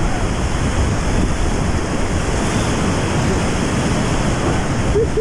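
Whitewater river rapids rushing loudly around a raft, with wind buffeting the microphone.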